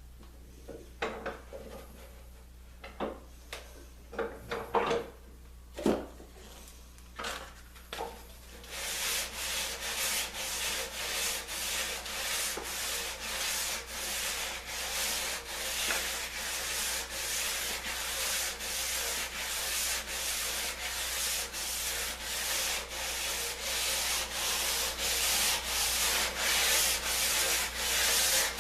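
Wood being sanded by hand: steady back-and-forth scraping strokes, about two a second, starting about nine seconds in. Before that come a few scattered knocks of wooden pieces being handled.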